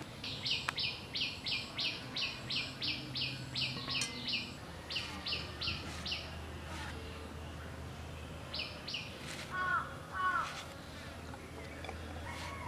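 A bird repeating a short high chirp about three or four times a second for some six seconds, then two more chirps and two louder, lower calls about ten seconds in.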